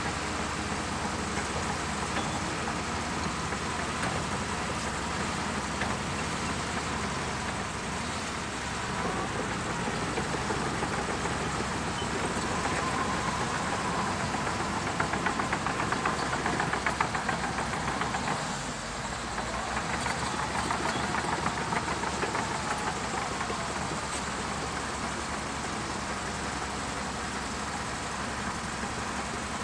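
Shantui DH17C2 bulldozer's diesel engine running steadily, then working harder and louder for several seconds in the middle with a fine rapid clatter before settling back.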